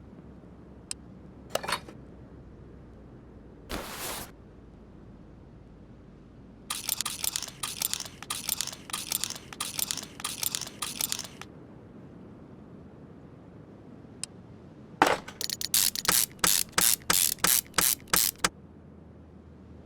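Sharp clicks: a dense run for about five seconds, then near the end about a dozen evenly spaced clicks, with a few lone clicks and a short rushing noise about four seconds in.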